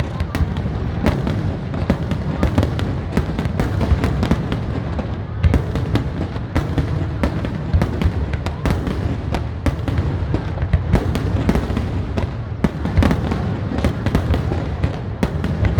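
Aerial fireworks display: a dense, continuous run of bangs and booms, with many sharp cracks coming irregularly over a steady low rumble.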